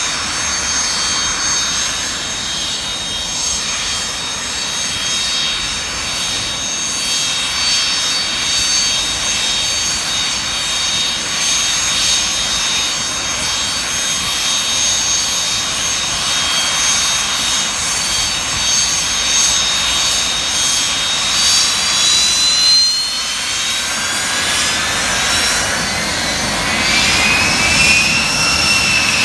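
Beriev Be-200 amphibious jet's two turbofan engines running as the aircraft taxis out of the water onto land: a steady jet roar with several high whining tones. About three-quarters of the way through, one whine glides upward, and near the end another rises and falls in pitch.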